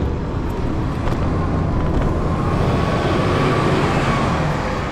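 Street traffic with wind rumbling on the microphone during a scooter ride; a vehicle's whine builds about two seconds in and fades near the end.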